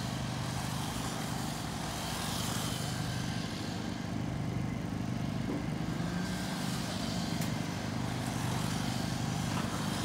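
Electric RC stock cars running laps on the track: their motors whine and their tyres hiss, with a faint whine sweeping past a couple of seconds in, over a steady low hum throughout.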